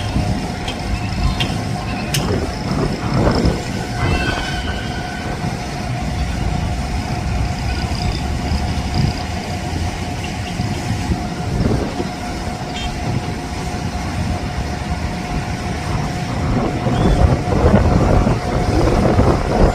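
Jet airliner engines rumbling steadily with a constant whine, from a Boeing 787 on its landing arrival. The rumble swells a little near the end.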